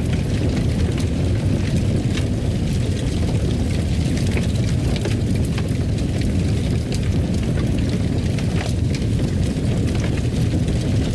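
Wood fire in a fireplace crackling: scattered small pops and snaps over a steady low rumble.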